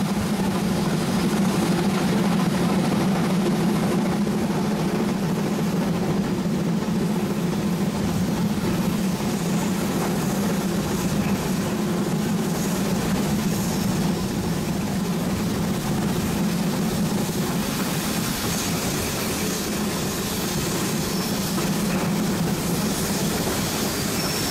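Steady running noise of a train on the move behind a geared Shay steam locomotive: a constant low hum with rattle and rumble, unchanging throughout after fading in at the start.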